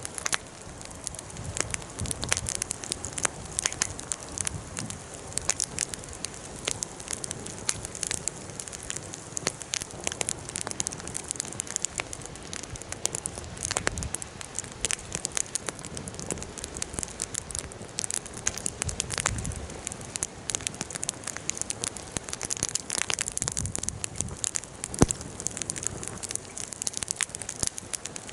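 Bonfire crackling, with frequent small irregular pops and one sharper pop near the end.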